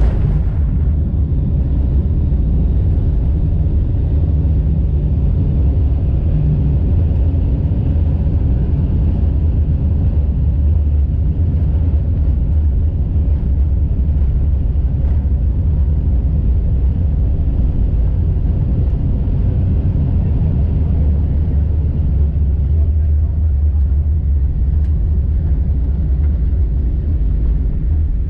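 Steady low rumble inside the cabin of a Boeing 747-8 rolling on the ground after landing: its GEnx engines near idle and the wheels on the pavement.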